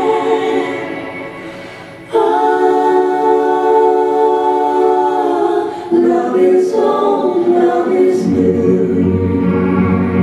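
Choir singing a cappella in long held chords. The first chord fades away, a new one comes in suddenly about two seconds in, the harmony shifts near six seconds, and lower voices join after about eight seconds.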